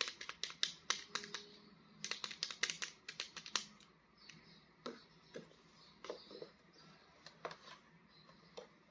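Quick plastic clicks and crackles as a toy action figure's packaging is handled and opened. The clicks come thick and fast for the first few seconds, then thin out to a few scattered knocks.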